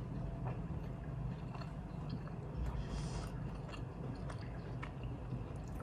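A person chewing a mouthful of homemade chocolate chip cookie bar, with small mouth clicks and squishes scattered through.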